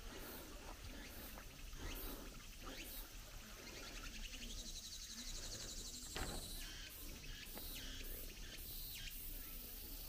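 A bird singing a fast trill of quickly repeated high notes for about three seconds in the middle, over steady outdoor background noise and a few short knocks.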